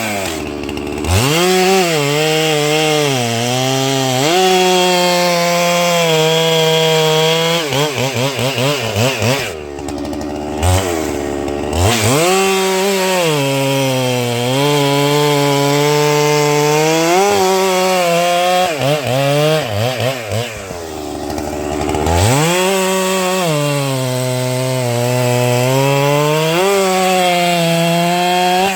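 Holzfforma 395XP, a Husqvarna 395XP clone with a large two-stroke engine, cutting through a pine sawlog at high revs. The pitch sags and recovers as the bar loads up in the wood. Twice, around ten and twenty seconds in, the revs drop and the throttle is blipped between cuts.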